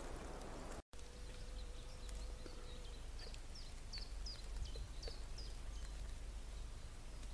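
Small woodland songbird calling: a run of short, high notes that slide downward, several a second, from about three seconds in for a couple of seconds. Under it runs a low wind rumble on the microphone.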